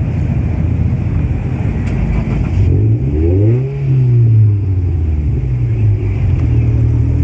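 A car engine revs up once, rising in pitch and then dropping back, over a steady low engine rumble.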